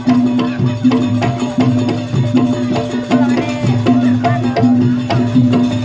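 Live jaranan Banyuwangi ensemble music: drums and struck percussion in a steady, regular rhythm over a held low tone.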